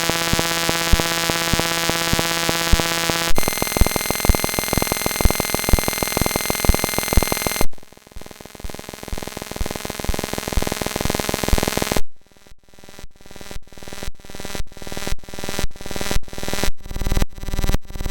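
Harsh electronic buzzing tones over a steady run of clicks, switching abruptly to a different buzz about three seconds in and again about eight seconds in. From about twelve seconds in it becomes a string of repeated pulses, about two a second.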